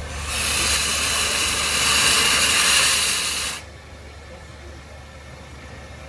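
Steam locomotive letting off steam: a loud hiss lasting about three seconds that cuts off suddenly, over a steady low hum.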